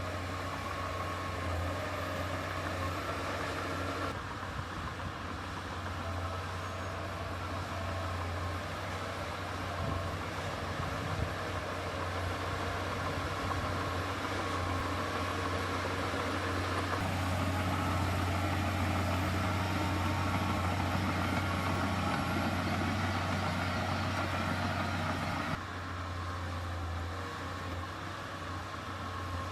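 Heavy earthmoving machine's diesel engine running steadily with a strong low hum. The sound changes abruptly about 4, 17 and 25 seconds in, and is loudest in the stretch between the second and third changes.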